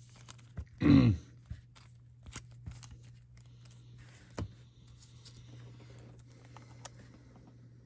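Baseball cards and plastic card sleeves being handled: faint rustling and scattered light clicks and taps. About a second in there is a short voiced grunt falling in pitch, and a steady low hum runs underneath.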